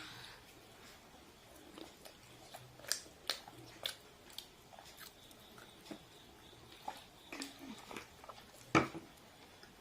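Close-up eating sounds of fried chicken being bitten and chewed: scattered short wet clicks and crunches at an uneven pace, with one louder click a little before the end.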